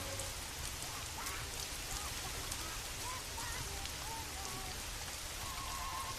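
Steady rain falling on surfaces, an even hiss with small sharp ticks of drops, and a few faint short wavering tones heard through it.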